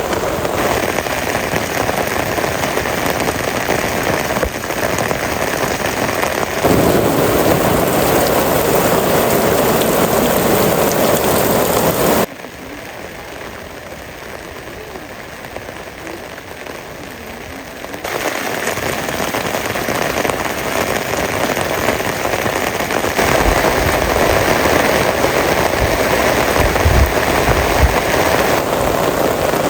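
Heavy rain falling, a steady hiss that jumps abruptly in loudness several times, with a much quieter stretch in the middle. A few low thumps come near the end.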